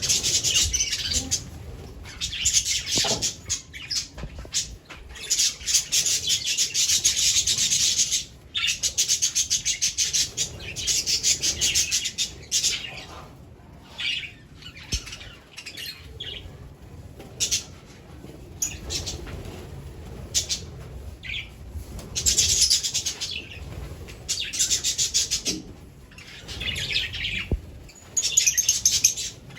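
Budgerigars chattering and warbling, high-pitched and rapid, in bouts of a few seconds with short pauses between.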